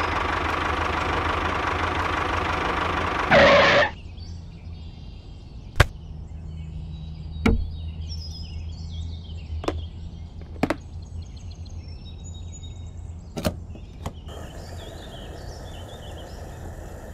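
A steady engine-like running sound for the first three and a half seconds, ending in a short loud burst and cutting off. Then come faint bird chirps with five sharp single knocks at uneven gaps.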